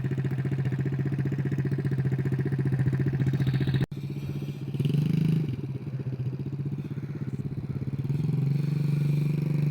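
Small 50cc dirt bike engine running steadily at low revs, with a brief dropout about four seconds in and slight rises in revs about five seconds in and again near the end.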